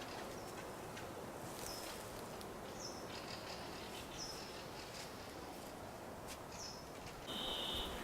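Wild birds calling over a steady outdoor hiss: four short, high chirps, each falling in pitch and spaced about a second or more apart, then a brief, higher steady call near the end.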